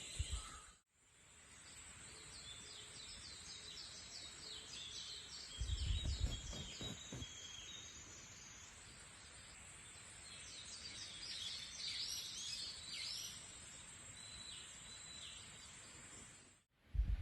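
Wild birds calling and chirping in a forest, with a steady thin high-pitched buzz through the first half and a brief low rumble about six seconds in.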